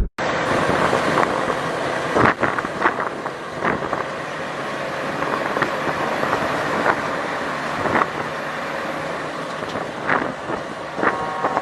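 Steady road traffic noise with a few short knocks scattered through it. A held pitched tone comes in near the end.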